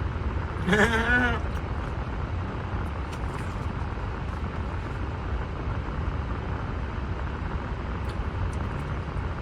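Steady low rumble of a car, heard from inside the cabin. About a second in there is a brief pitched vocal sound from a person.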